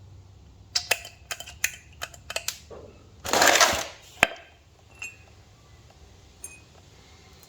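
Metal tools and parts being handled on a workbench: a quick run of sharp clinks and clicks, then a short noisy rustle and one last clack, followed by a few faint ticks.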